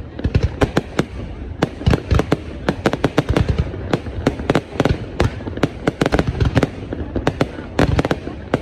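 Aerial fireworks going off in a rapid, irregular barrage of sharp bangs and cracks, several a second.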